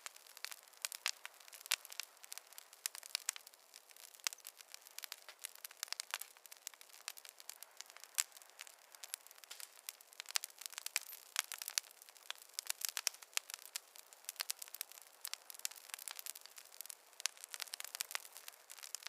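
Wood fire crackling in a fireplace: a steady stream of irregular pops and snaps, several a second, over a light hiss.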